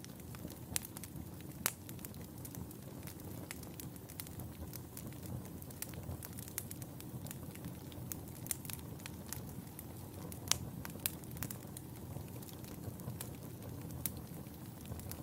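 Wood fire burning in a fireplace: a steady low rumble of flames with irregular crackles and sharp pops, a few louder snaps scattered through.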